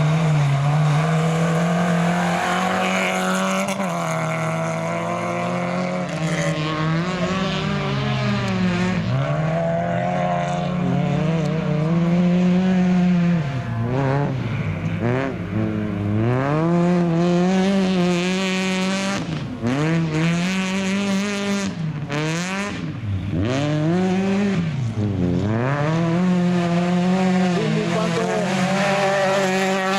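Autocross race car engine running hard on a dirt track, its pitch climbing and dropping over and over as the driver accelerates, shifts and lifts through the corners.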